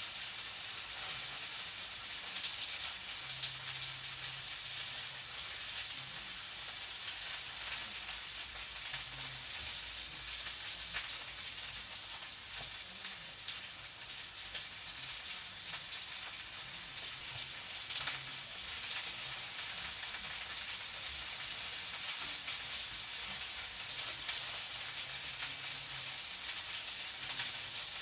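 Food frying in a pan: a steady crackling sizzle with scattered small pops.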